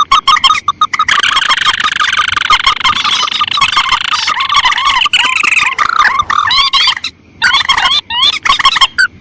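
Bird-lure recording of paddy-field rails and crakes (mandar and tikusan) calling: dense, overlapping, rapidly repeated calls that break off briefly about seven and eight seconds in.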